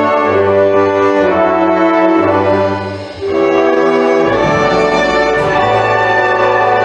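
A wind band's brass section playing held chords that change every second or so over a low bass line, with a brief dip in loudness about three seconds in.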